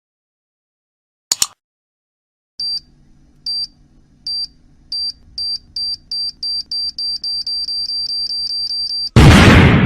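Stock time-bomb countdown effect: a single high electronic beep repeats over a faint low hum, speeding up from about one a second to a rapid run, and is cut off near the end by a loud explosion that dies away slowly. A short click comes about a second in.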